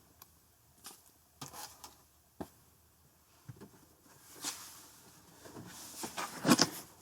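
Handling noise from a comic book being held and shown: several brief rustles and light taps, then a longer stretch of rustling in the second half.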